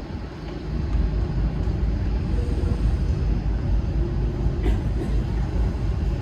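Steady low rumble on the open deck of a cruise ship under way, with wind buffeting the microphone.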